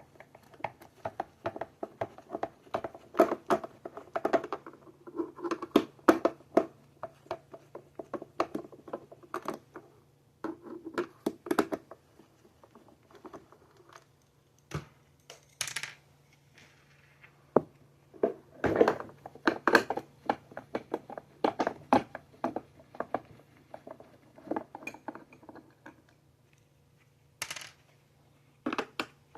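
Irregular clicks, taps and clatter of the hard plastic housing and parts of a Bissell PowerForce Bagless Turbo 6596 upright vacuum being handled and taken apart.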